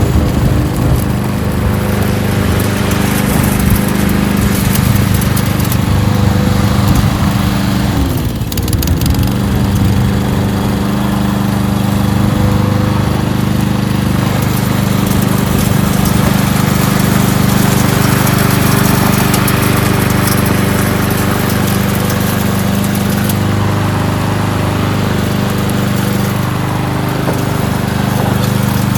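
Kohler XT-675 single-cylinder engine on a push lawn mower running steadily. About eight seconds in its pitch dips briefly and recovers, as under a momentary load.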